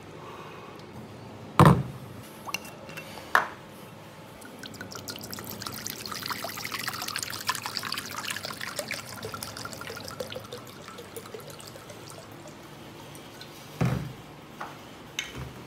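Stewed beef and its thick sauce poured out of the pot into a serving dish: a wet pouring and dripping sound from about four to eleven seconds in. Sharp knocks come twice near the start and once near the end.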